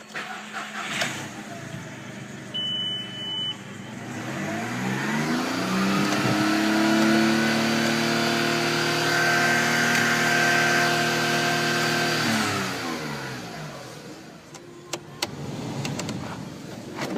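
Volkswagen Polo 1.2-litre three-cylinder petrol engine (AWY) idling, then revved up over a few seconds, held at raised revs for about five seconds, and let back down to idle.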